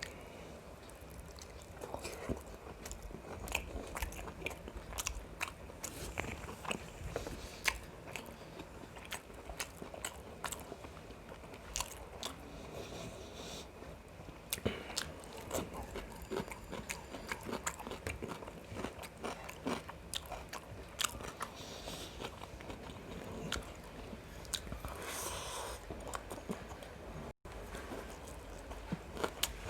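Close-miked chewing and biting of a person eating biryani, with frequent small wet clicks and crunches and no talking. A brief cut to silence comes near the end.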